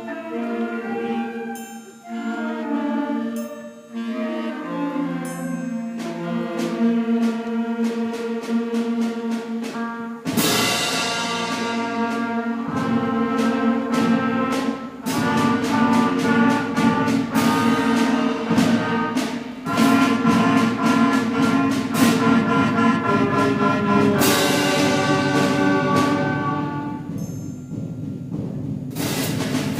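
Middle school concert band playing a piece in three: a lighter passage of sustained wind chords, then about ten seconds in the full band comes in loudly with repeated percussion strikes under the winds.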